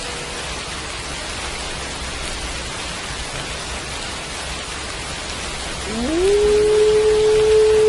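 Steady rain falling, with a wolf howl beginning about six seconds in: it rises, then holds one long steady note.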